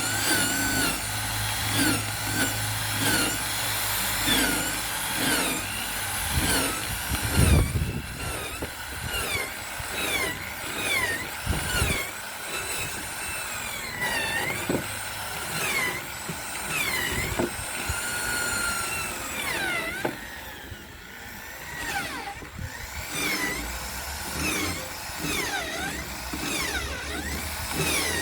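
Electric drill running in short spells, its whine dipping and rising in pitch again and again as it is eased off and on, with a few knocks.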